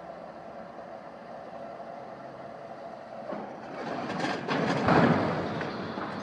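An engine runs steadily. From about three seconds in a rumbling clatter builds, with several heavy knocks, and is loudest about five seconds in.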